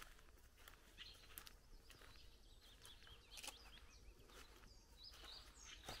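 Faint songbird chirps and short warbles scattered through quiet rural morning ambience, with a few soft footstep clicks.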